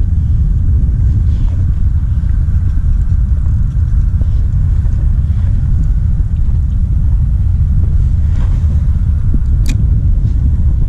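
Steady, loud low rumble of wind buffeting the microphone on open water, with a single sharp click near the end.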